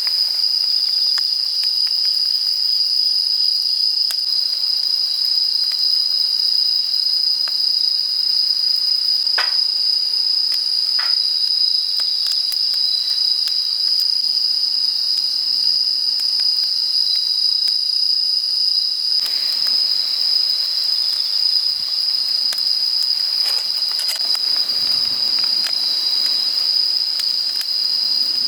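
Night insects, crickets or similar, chirring in one steady, continuous high-pitched drone. A couple of small clicks come about a third of the way in, and past the middle a soft hiss with scattered faint crackles joins underneath.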